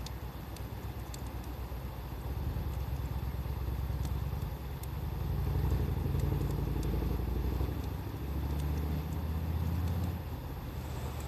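Wood fire crackling with faint, scattered pops, under a loud low rumble that swells and eases and then cuts off sharply near the end.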